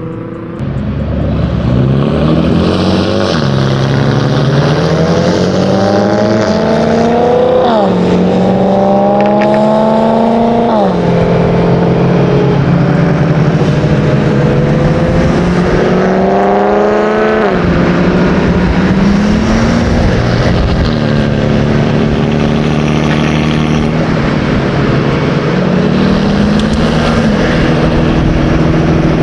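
Single-turbo BMW M3 CS engine pulling hard several times, its pitch climbing through each gear and dropping sharply at each shift or lift-off, with steadier cruising between the pulls.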